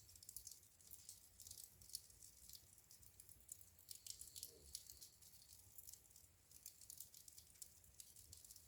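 Wood fire crackling faintly in a fireplace: many small, irregular pops and snaps, with a low rumble beneath.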